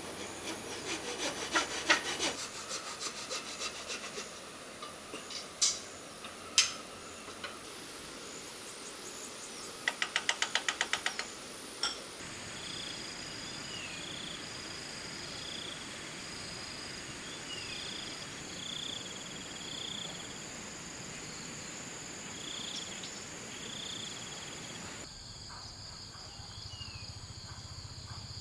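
Hand work on wood: a run of quick rasping strokes, two sharp knocks, then a fast burst of strokes and one more knock. After that the sound changes abruptly to steady outdoor background with a high chirp repeating every second or two.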